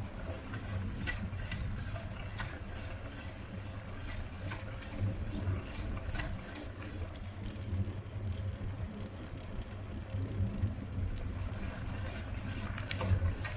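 Riding a bicycle: a steady low wind rumble on the microphone, with the bike rattling and clicking over the road surface.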